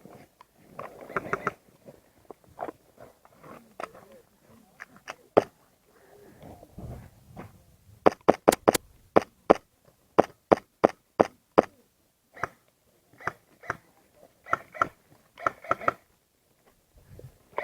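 Airsoft gunfire: sharp, snapping shots, a quick string of about six a little before the middle, then single and paired shots spread over the next several seconds.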